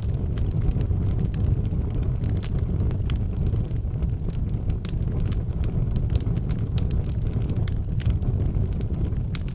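Outdoor wood fire crackling, with frequent short sharp pops scattered irregularly over a steady low rumble.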